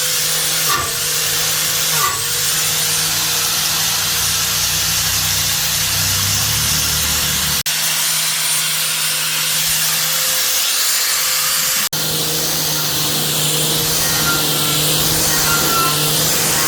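Electric motor of a workshop tool running steadily with a hum, with a few short knocks in the first two seconds and two sudden breaks in the sound, about eight and twelve seconds in.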